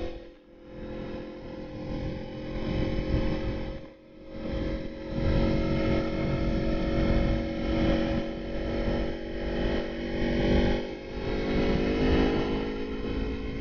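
Aprilia Tuono motorcycle engine running under way, with road and wind noise. The engine sound drops away briefly twice, about half a second in and again about four seconds in, then picks up again.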